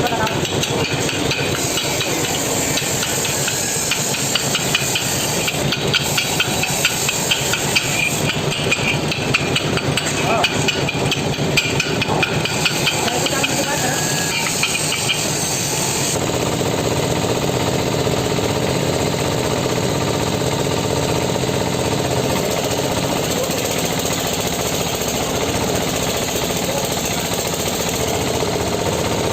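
Tractor engine running steadily, with a fast metallic rattle over it that stops about halfway through, leaving the engine running evenly.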